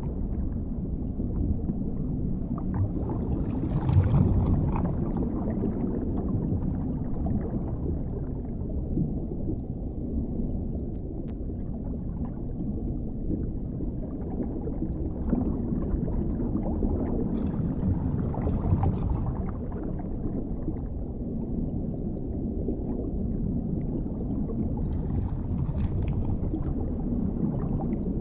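Underwater ambience: a continuous deep, low rumble with slow swells, about four seconds in and again in the second half, and scattered faint bubbling gurgles.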